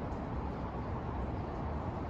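Steady city background noise: a low, even hum with no distinct events standing out.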